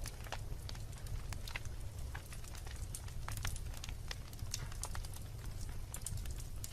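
Wood fire in a fireplace, logs crackling and popping in irregular sharp snaps over a steady low rumble of burning.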